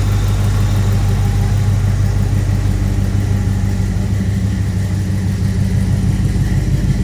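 1966 Chevrolet Nova Super Sport's V8 engine idling steadily.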